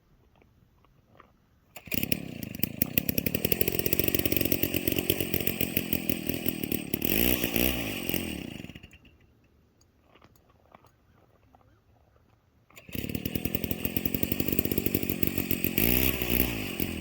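Gas-powered ice auger's small engine running in two bursts, about six seconds and then about four, its engine speed rising and falling near the end of each as it drills a hole through the ice.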